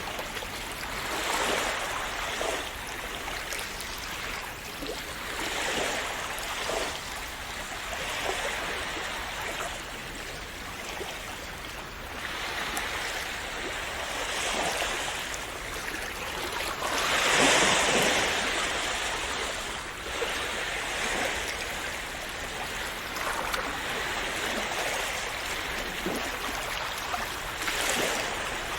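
Sea waves washing in and splashing, a steady wash of water that swells every few seconds, with one larger wave breaking about two-thirds of the way through.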